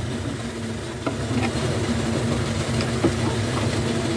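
Chicken pieces and chicken liver sizzling steadily in an aluminium pot after fish sauce has been added, with a few light clicks of the metal spoon against the pot and a steady low hum underneath.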